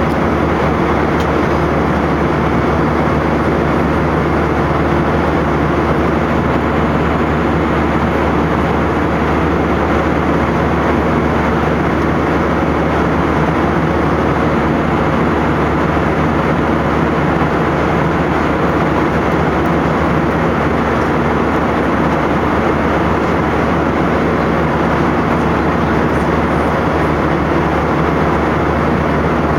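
Airliner cabin noise: a steady, unbroken drone of jet engines and rushing air, with a low hum running under it.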